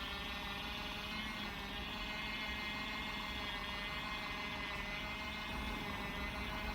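Small electric motor of a makeup-sponge washing machine running steadily as it spins the sponge in water, a steady whirring hum.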